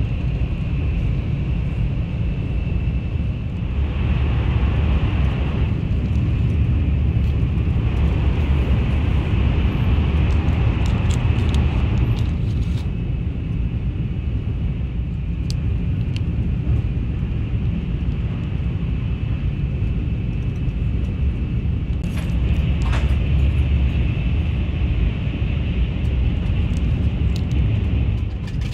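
Shinkansen bullet train running at speed, heard inside the passenger car as a steady low rumble with a faint high hum, and a few light clicks here and there.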